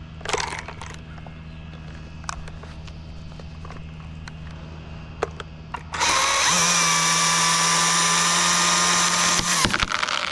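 Chainsaw starts abruptly about six seconds in and runs at a steady high pitch for about three and a half seconds, then cuts off suddenly. Before it come a few scattered clicks and knocks.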